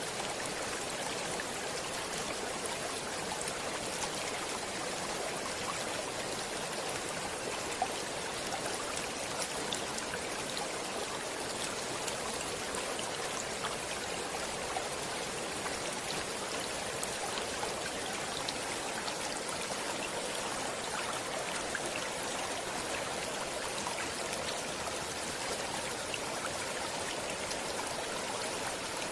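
Stream water flowing steadily: an even rush of running water with small splashes scattered through it.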